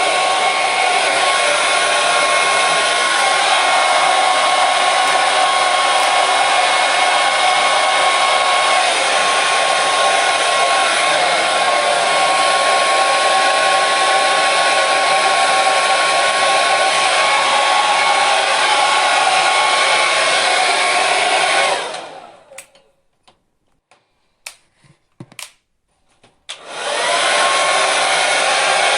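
Electric hair dryer running steadily, a loud rush of air with a motor whine. About three quarters of the way through it stops, winding down over a second, a few faint clicks follow in the quiet, and then it starts again with its whine rising as the motor spins up.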